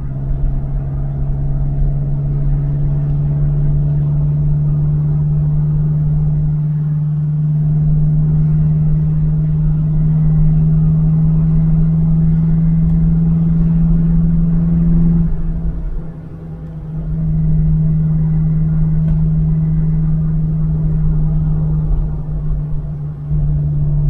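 Alfa Romeo 1750 GTV's twin-cam four-cylinder engine pulling at a steady cruise, heard inside the cabin. The note dips briefly about two-thirds through, then settles steady again.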